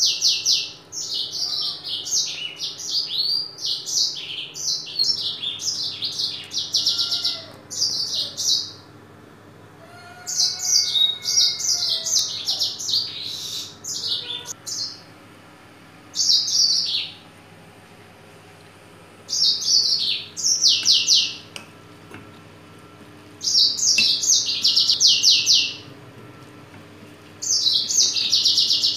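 Small birds chirping in rapid high twittering bouts, each lasting one to several seconds, with short pauses between them.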